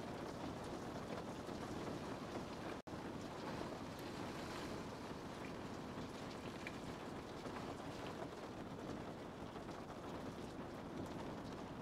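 Steady rain falling, an even hiss and patter that cuts out for a split second about three seconds in.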